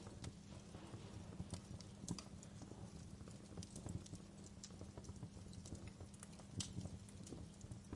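Wood fire crackling in a stone fireplace: faint, irregular pops and snaps over a low steady rumble, with a few sharper pops.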